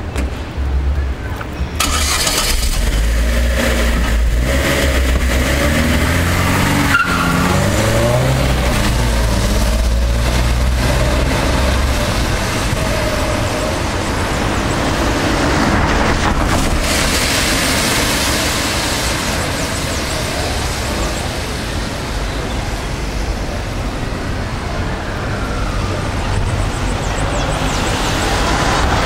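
Small Chevrolet hatchback's engine starting about two seconds in, then revving as the car pulls away, its pitch rising several times over the next few seconds. Steady engine and road noise follow.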